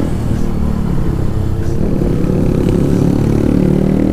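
Motorcycle engine running while riding. Its pitch falls over the first couple of seconds as it eases off, then rises again as it accelerates near the end.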